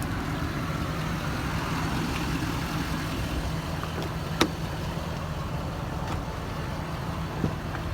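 Ford 6.7 Powerstroke V8 turbo diesel idling with a steady low drone. A single sharp click comes about four and a half seconds in.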